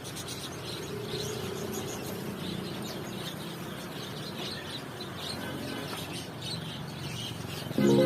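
Birds chirping: many short, high calls scattered throughout over a low steady background hum. Music comes in at the very end.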